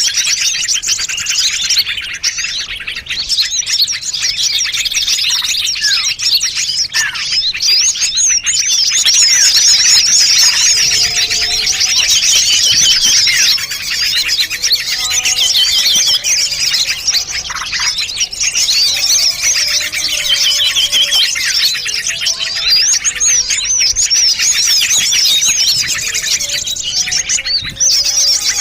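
Bird-lure recording of many small songbirds calling at once: dense, overlapping high chirps and twitters without a break. From about a third of the way in, some short, lower whistled notes join the chorus.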